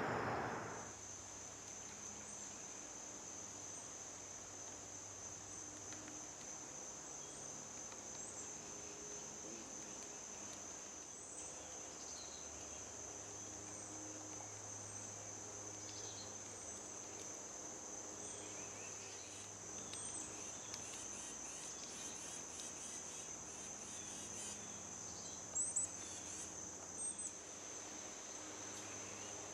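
Insects trilling in a steady, unbroken high note, with faint short bird chirps now and then and two brief louder sounds near the end.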